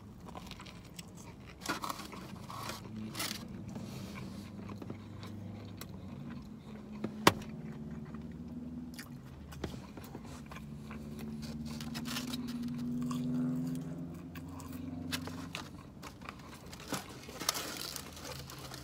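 Chewing a hot dog in a crusty, crunchy roll, with crisp crunches and wet mouth sounds over a low hum. A single sharp click about seven seconds in.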